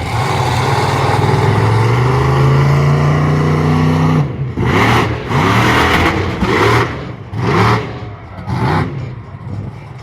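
Monster truck engine revving hard, its pitch climbing as it accelerates for a jump. About four seconds in, the steady run breaks off into a series of short, sharp revving bursts, five or six over the remaining seconds.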